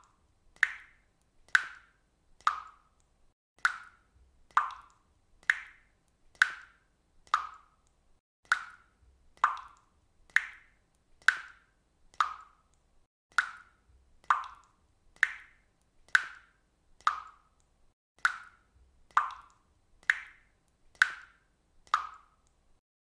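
Water dripping from a faucet: single drops falling at a steady rate of about one a second, each a short, sharp plink.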